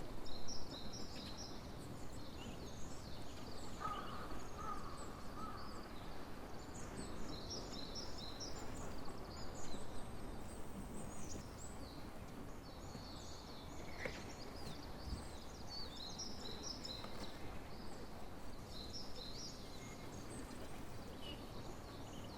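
Songbirds chirping and singing in quick runs of short high notes, over a steady low background noise.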